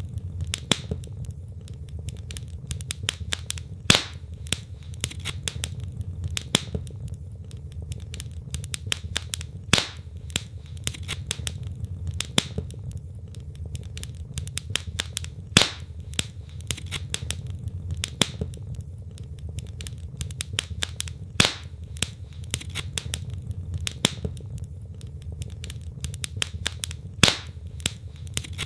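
Wood logs burning in a fireplace: dense crackling with sharp pops, a louder pop about every six seconds, over a low steady rumble of the flames.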